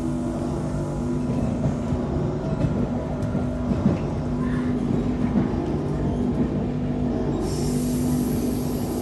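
Running noise heard aboard an MI 79 RER B electric multiple unit: a steady low rumble with two held humming tones, which the title calls a strange noise. A high hiss cuts out about two seconds in and comes back abruptly near the end.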